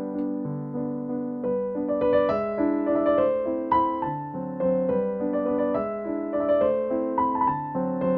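Background piano music: a gentle melody over chords, the notes moving from one to the next with a steady pulse, the tune climbing higher about two seconds in.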